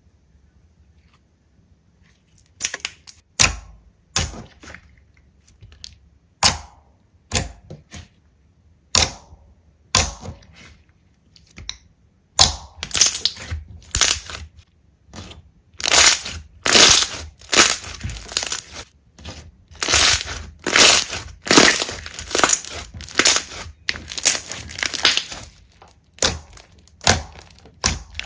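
Slime being squeezed and pressed by hand, giving sharp crackling, crunching bursts. They begin as separate squeezes a second or so apart after a short quiet start, then come thick and fast through the second half.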